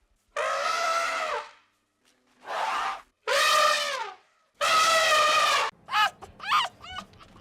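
An animal calling: four loud, drawn-out pitched calls, then from about six seconds in a quick series of short yips, roughly three a second.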